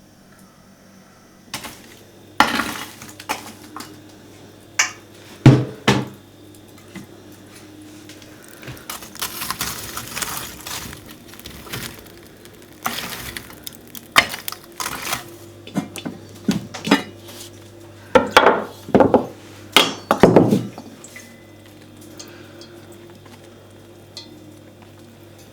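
Pots, dishes and cutlery being handled: irregular knocks and clinks, with a few seconds of scraping about ten seconds in, then quiet for the last few seconds.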